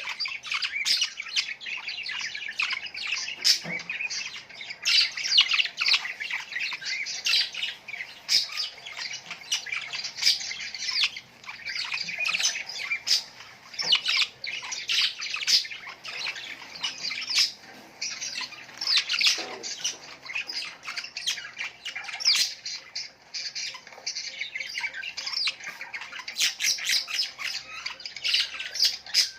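Many small birds chirping and squawking together, a dense, unbroken chatter of short overlapping calls.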